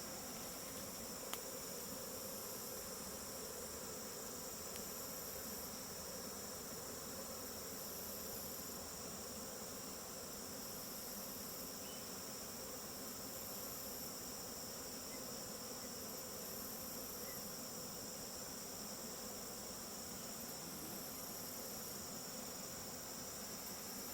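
A honeybee swarm humming steadily as the bees file into a hive body box, a sound called very soothing. A steady high insect trill sounds above the hum, and there is one faint click about a second in.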